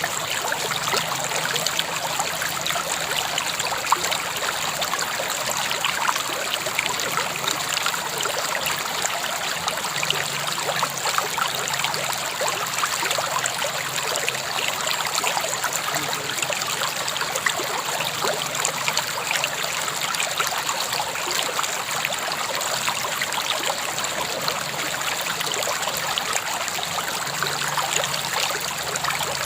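River water flowing over stones in a steady, even rush, with small trickling splashes throughout.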